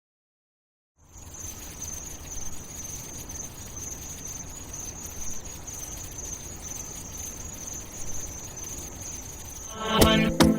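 Steady high insect chirring, like crickets, with a low rumble underneath, starting about a second in. Near the end a pop song's beat comes in loudly with plucked, pitched notes.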